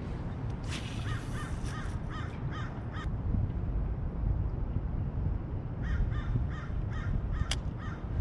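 A bird calling in two runs of short repeated calls, about two a second, the first about a second in and the second near six seconds in.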